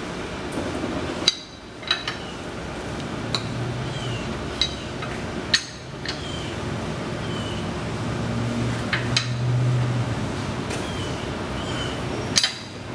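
Lug wrench on a car's wheel lug nuts during final tightening: sharp metallic clicks and clinks at irregular intervals, a second or a few seconds apart.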